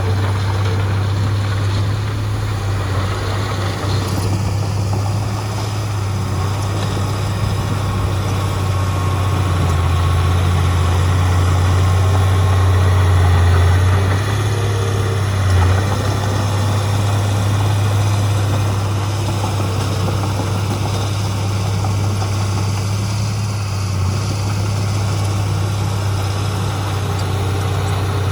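Heavy diesel engine of earth-moving machinery running steadily with a deep low hum. It swells slightly about ten seconds in, then eases back.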